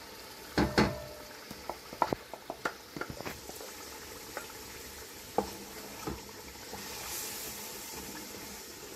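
Masala with freshly added tomato puree sizzling as it fries in a handi pot while a spoon stirs it. The spoon knocks and scrapes against the pot several times, loudest about half a second in.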